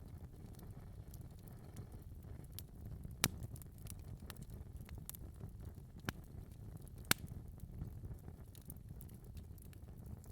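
Fire crackling in a fireplace: a steady low rumble of flame with scattered faint crackles and three sharp pops, a few seconds apart, in the middle.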